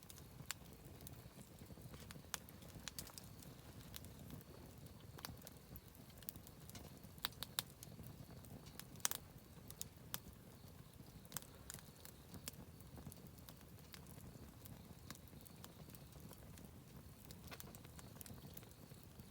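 Wood campfire crackling quietly: irregular sharp pops and snaps over a low, steady rumble, with one louder pop about nine seconds in.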